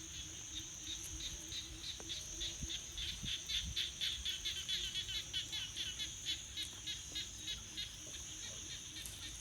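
Forest ambience: a steady high insect buzz with a rhythmic chirping over it, about four chirps a second, louder in the middle.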